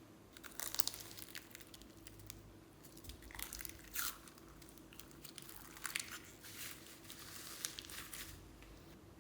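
Slime being kneaded and squeezed by hand, giving irregular bursts of sticky crackling and clicking.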